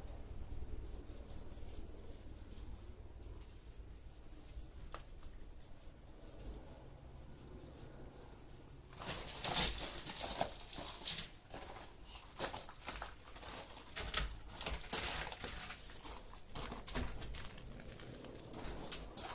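A low steady hum, then from about nine seconds in a busy run of sharp clicks, scrapes and rustling from hands and tools working on the door glass.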